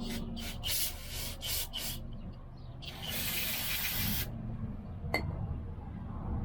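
Aerosol carburetor cleaner spraying: a few short hissing bursts, then one longer blast of about a second and a half about three seconds in. A single sharp click follows a little after five seconds.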